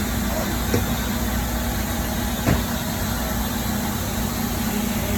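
Steady machine running noise with a low hum, broken by two short knocks, about a second in and about two and a half seconds in.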